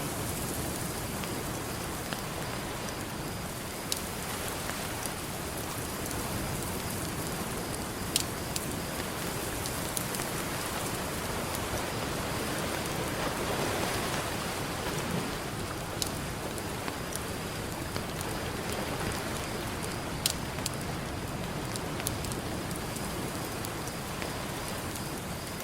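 Campfire crackling, with sharp pops every few seconds, over a steady wash of ocean surf that swells briefly about halfway through.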